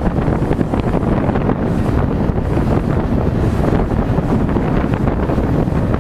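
Wind buffeting the microphone on a moving freight train, over the train's steady low rumble.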